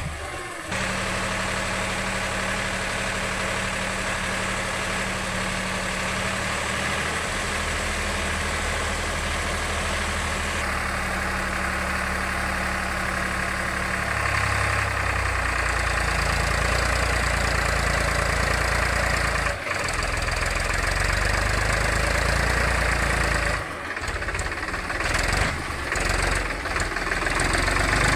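Diesel engine of heavy earth-moving machinery running steadily at low revs, getting a little louder about halfway through, with a couple of brief drops.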